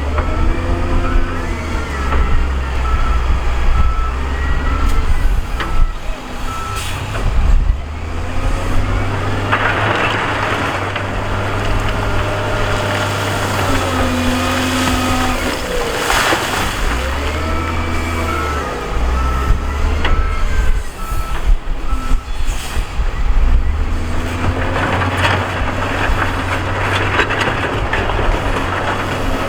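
Diesel engines of heavy earthmoving machines working, their pitch rising and falling with load. A reversing alarm beeps in two runs, near the start and again past the middle, with stretches of rough noise between them.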